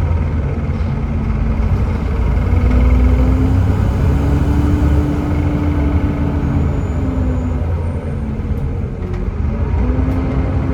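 Volvo B7TL double-decker bus's 7.3-litre Volvo D7C diesel engine running under way with its ZF Ecomat 6-speed automatic gearbox: a steady low rumble with a tone that rises and holds, drops back about two-thirds of the way through, then climbs again near the end.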